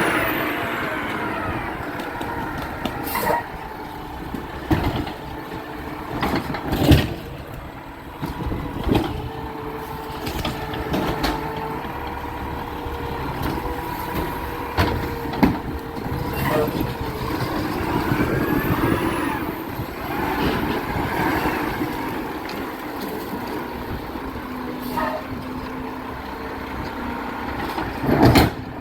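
Garbage truck running, with repeated sharp bangs and clanks and a few rising whines.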